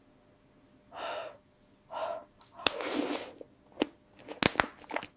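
Close-miked eating sounds: three short breathy rushes of air about a second apart, then scattered sharp clicks and cracks, the loudest about four and a half seconds in.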